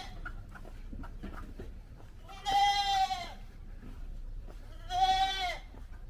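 Goat bleating twice: one call of about a second, then a shorter one, each dropping in pitch as it ends.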